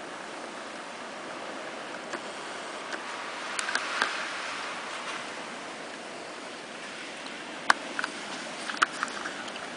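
Steady rush of blizzard wind heard from inside a garage, with a few sharp clicks and ticks about a third of the way in and again near the end.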